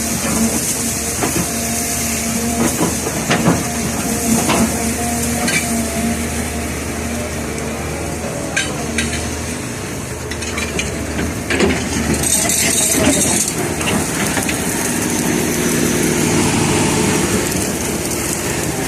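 Heavy diesel machinery running steadily during sand screening, with repeated metal clanks and the rattle and hiss of sand and stones being sifted over a steel screen.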